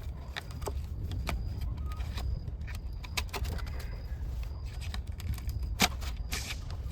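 Scattered light clicks and knocks over a steady low rumble, with one sharper knock near the end.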